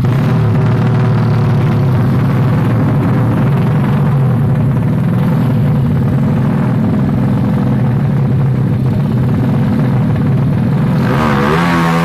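Loud, steady running of tuned Yamaha Jupiter drag-race motorcycle engines. About a second before the end, an engine close by is revved up and down.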